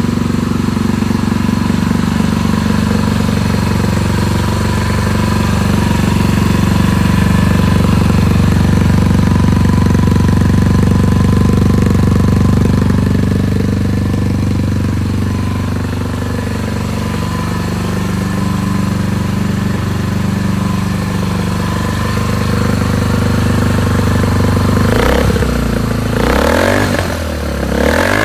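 Suzuki ST250E's single-cylinder four-stroke engine idling steadily through an aftermarket muffler, then revved up and back down about three times near the end.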